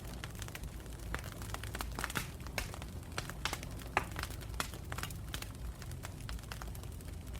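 Campfire burning wood, crackling with irregular sharp pops over a low steady rumble of flames, one pop louder than the rest about four seconds in.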